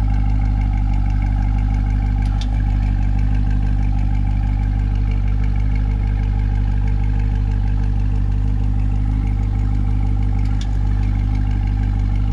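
2020 Corvette C8's 6.2-litre LT2 V8 idling steadily after a cold start, with two faint ticks about two seconds in and near the end.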